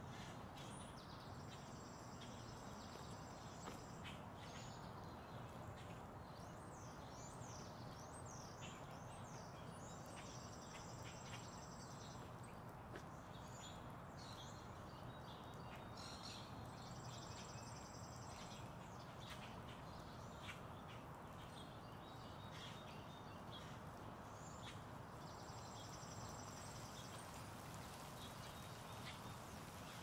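Songbirds singing over a steady, quiet outdoor background hiss: one bird repeats a trilled phrase about four times, with other short chirps between.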